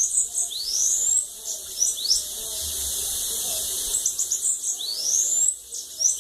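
Bananaquit singing its 'cachorro louco' song: quick runs of very high, thin notes followed by upward-sweeping whistles, in two phrases, the second starting about four seconds in.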